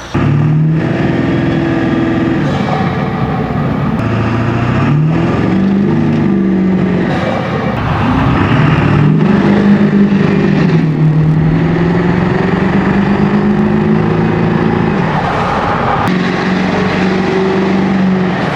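Diesel pickup engine running through a 5-inch turbo-back straight-pipe exhaust, its pitch climbing and dropping several times as it is revved and driven.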